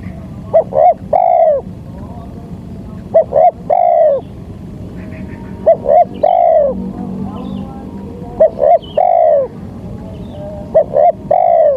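Spotted dove (tekukur) cooing, a lure call: five repeated phrases, each two short coos followed by a longer drawn-out coo, about every two and a half seconds.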